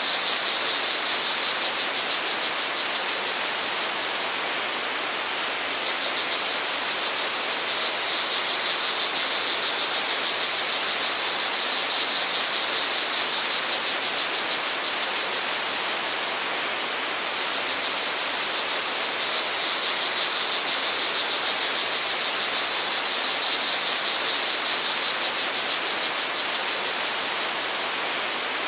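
Steady rush of flowing water from a stream or small waterfall, with crickets chirping over it in a fast, high, pulsing trill that comes and goes, dropping out for a few seconds twice.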